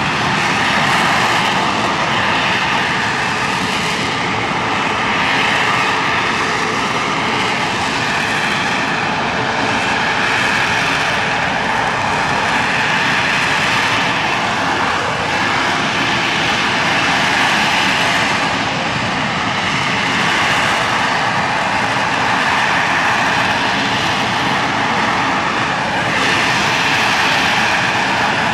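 The AV-8B Harrier II+'s Rolls-Royce Pegasus turbofan running loud and continuous, a dense jet noise with a high whine that swells and eases slightly every few seconds.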